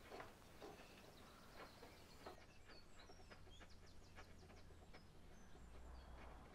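Near silence, with faint high bird chirps from a couple of seconds in.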